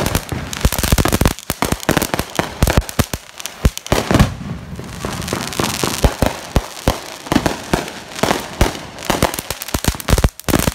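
Consumer fireworks going off: a rapid, unbroken run of sharp cracks and bangs, with a hiss from about four to seven seconds in.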